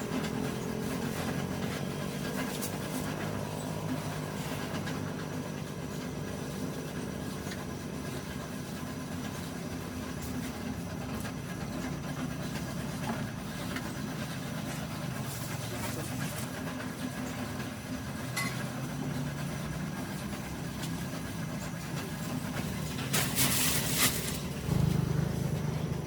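An engine running steadily with a low hum, and a brief hiss near the end.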